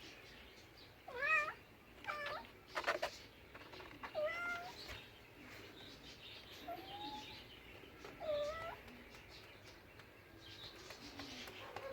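A domestic cat meowing: a series of short meows, about five in all, with pauses between them, each bending up and then down in pitch.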